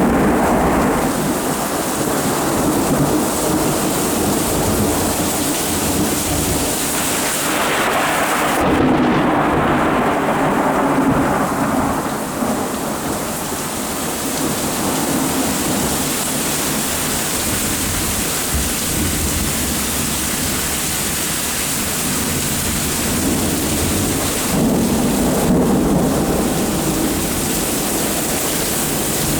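Steady rain with rolling thunder: a long rumble swells about a third of the way in and fades over several seconds, and another rumbles near the end.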